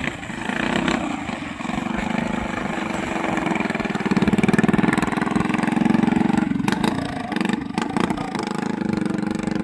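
Small 6.5 racing-boat engine running with a fast, even firing rhythm. It grows louder about four seconds in. A few sharp clicks come near the end.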